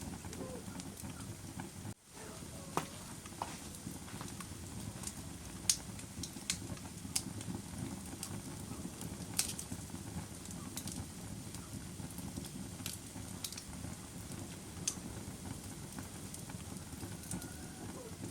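Wood fire crackling: a steady low rush of burning, with scattered sharp pops and snaps at irregular intervals and a momentary dropout about two seconds in.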